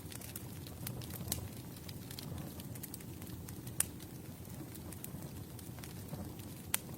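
Campfire burning: a steady low rumble of flames with irregular sharp crackles and pops of wood, one louder pop about four seconds in and another near the end.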